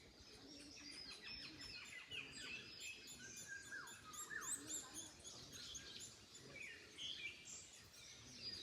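Several birds chirping and calling at once, in a dense mix of short chirps and quick falling whistled notes, over a faint low rush of wind in the trees.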